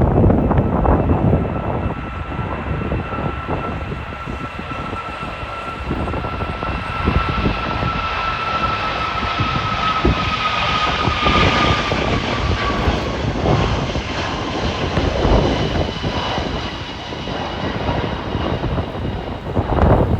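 Boeing 777 jet engines at takeoff power, a steady high whine over a deep rumble; the whine drops slightly in pitch about two-thirds of the way through as the aircraft passes. Gusty wind buffets the microphone throughout.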